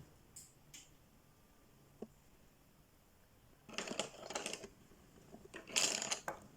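Coloring supplies being handled on paper: a few light clicks, then two scratchy, rustling bursts about a second long each, one near the middle and one near the end.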